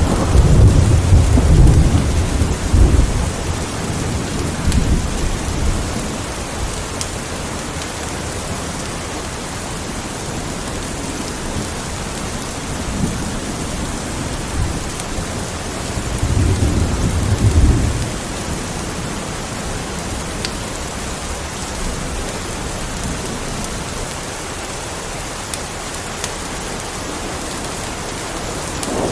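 Steady rain with thunder rumbling: a loud roll at the start that dies away over the first few seconds, and another lasting a couple of seconds about two-thirds of the way through.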